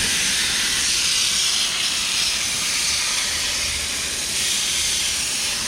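Garden hose spray nozzle on a flat setting, spraying water onto the metal fins of an outdoor air-conditioner condenser coil with a steady hiss.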